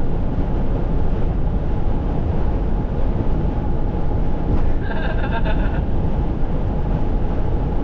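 Steady low rumble of a moving vehicle. About five seconds in, a brief pulsing tone sounds for about a second.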